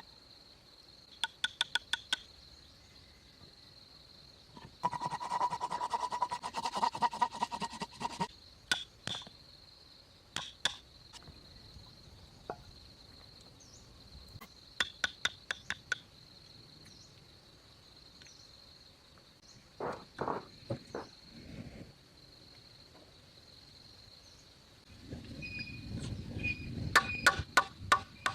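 Hand-tool work on wood: short runs of quick, sharp taps, with a stretch of rasping scrape about five seconds in. Under it runs a steady high insect chirr.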